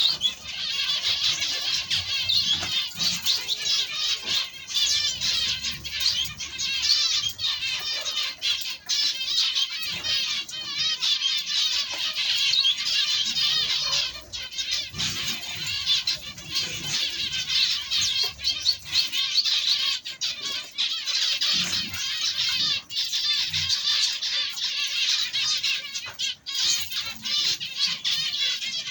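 A large flock of small ornamental cage birds chirping and chattering together in an aviary: a dense, unbroken twittering of many overlapping calls.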